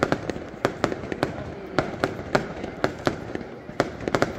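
Fireworks going off in an irregular string of sharp bangs and cracks, about three a second, over a steady hiss.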